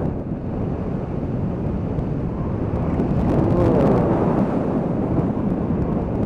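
Heavy wind buffeting on the microphone while riding a 2013 Honda CB500X in gale-force wind. The bike's parallel-twin engine runs underneath through its Staintune exhaust, and the sound swells briefly a little past the middle.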